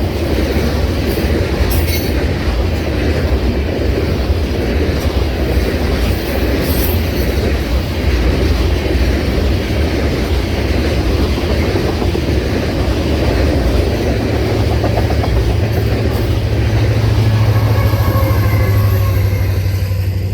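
Train passing, its railcars rumbling steadily with wheels clacking over the rail joints. A low steady hum builds in the last several seconds.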